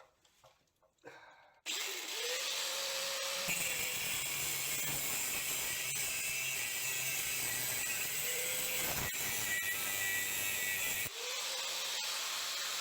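A power tool starts abruptly about two seconds in and runs steadily, cutting into a steel Triumph TR6 gearbox part so that it can be removed.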